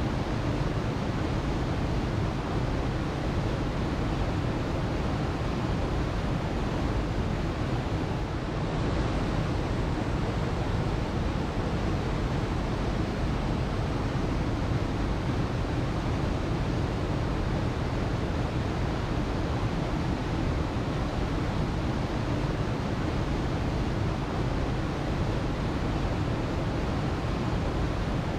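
Waterfall: a steady, unbroken rush of falling water, deep and even throughout.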